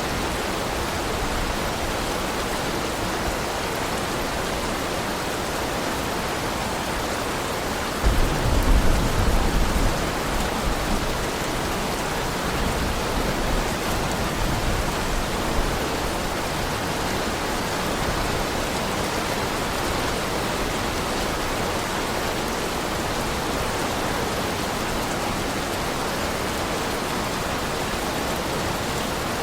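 Heavy rain falling steadily in an even hiss, with a short low rumble of thunder about eight seconds in.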